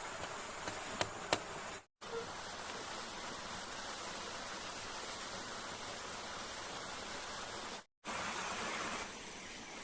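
Steady rush of falling water from a waterfall, an even noise with no pitch. Two sharp clicks come about a second in, and the sound cuts out abruptly for a moment twice.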